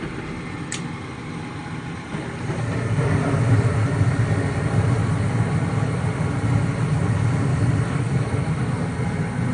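Gas furnace running with its newly replaced combustion (draft inducer) motor: a steady mechanical hum, with a short high click under a second in. About two and a half seconds in, the low hum grows louder and stays there.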